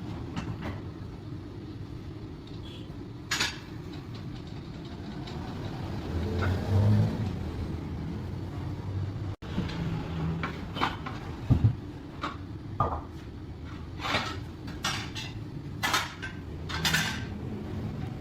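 Scattered metallic clinks and knocks, more frequent in the second half, over a steady low machine hum.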